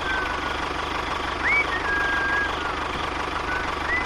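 Small engine running steadily with a fast, even knocking pulse, with a few short whistle-like chirps, rising and then held, above it.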